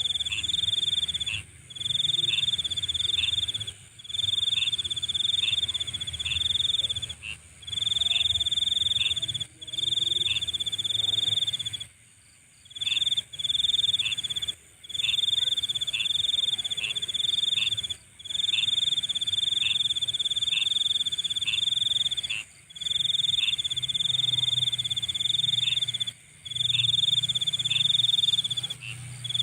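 Night insects trilling: a high, even trill in bursts of a second or two with brief gaps, over a low steady hum.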